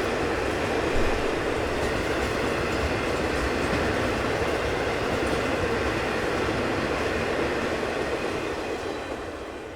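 Freight train cars rolling past on the rails, a steady heavy rumble and rattle that fades away over the last couple of seconds.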